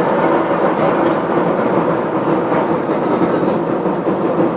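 Steady drone of engine and airflow noise inside an airplane's passenger cabin.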